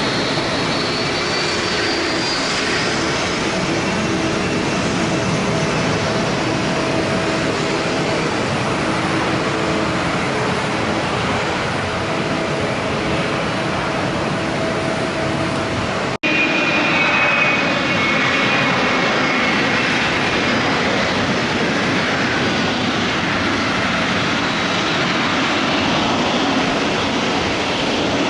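Boeing 777 jet engines at takeoff power: a loud, steady rush with whining tones, some slowly gliding in pitch. About sixteen seconds in the sound breaks off for an instant and resumes with a different set of whining tones.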